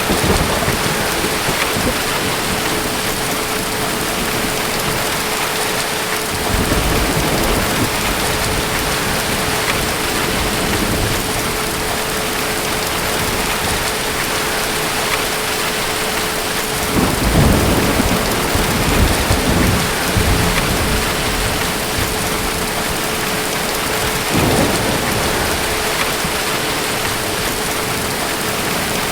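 Steady heavy rain with distant thunder rumbling four times, the longest and loudest rumble about two-thirds of the way through. A faint steady hum sits under the rain.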